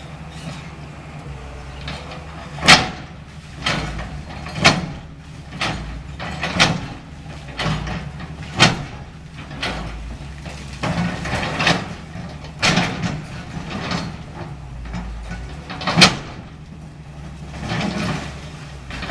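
CAT 325L hydraulic excavator's diesel engine running steadily during building demolition, with a dozen or so sharp crashes and knocks of breaking and falling debris at uneven intervals. The loudest crashes come about three seconds in and about sixteen seconds in.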